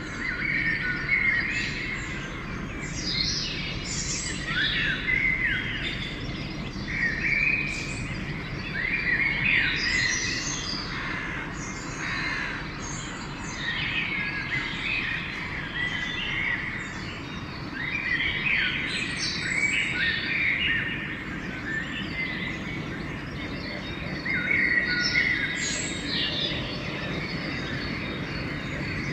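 Dawn chorus: several songbirds singing and calling over one another in quick overlapping chirps and trills, over a steady low rumble of background noise.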